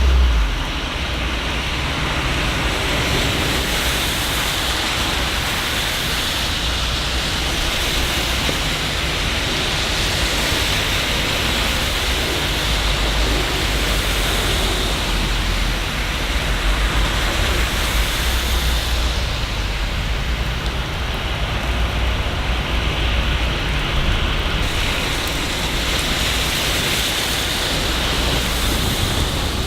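Steady city rain: an even hiss, with a low rumble underneath that swells and fades several times and is strongest right at the start.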